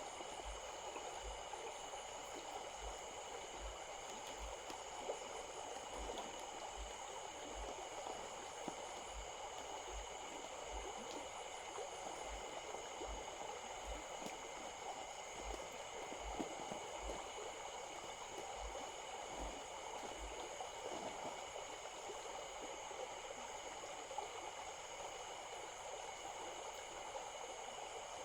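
Small stream babbling steadily, with a steady high-pitched ringing hum above the water.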